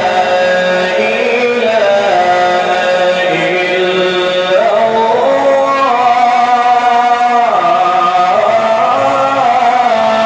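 A man's voice in melodic Quran recitation (tajwid), drawing the syllables out into long held notes that slide between pitches with hardly a break.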